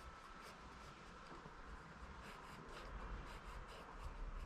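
Faint scratching of a pencil drawing on paper: short, irregular strokes.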